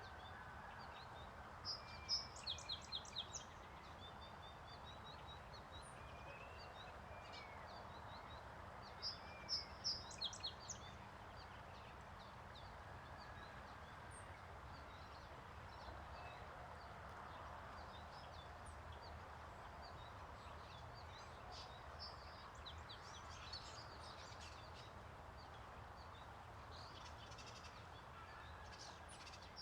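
Small birds singing and chirping, with two louder quick series of high notes about two seconds and nine seconds in, over a steady background noise.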